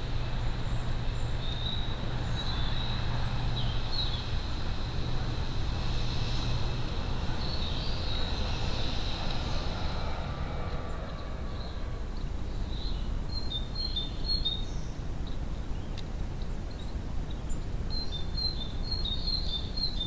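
Small birds chirping in short clusters, several times, over a steady background hiss with a low hum for the first few seconds.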